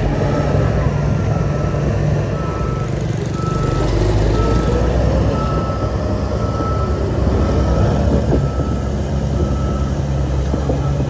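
Reversing alarm on a heavy machine beeping about once a second, over the steady low running of a diesel engine.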